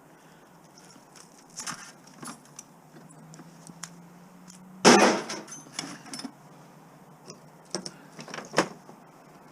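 Scrap metal being handled: scattered clinks and knocks, with one loud, sharp impact about five seconds in.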